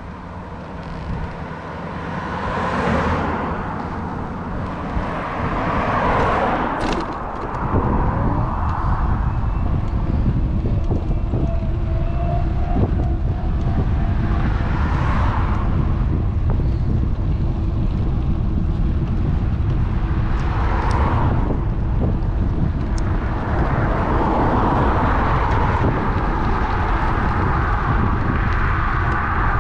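Wind buffeting the action-camera microphone on a moving bike, a low rumble that grows heavier about eight seconds in. Cars go by several times, each swelling and fading.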